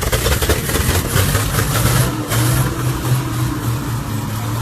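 Motor vehicle engine running with a steady low hum. For the first two seconds or so a loud rushing noise sits over it, then stops.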